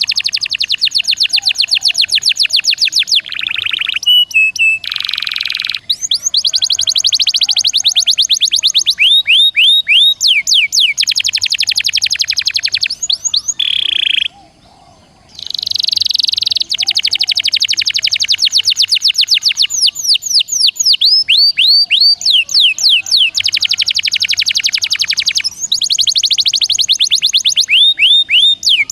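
Songbird singing dense, very fast trills of rapidly repeated notes, broken by a few downward-sweeping whistled notes, with a brief pause about halfway through.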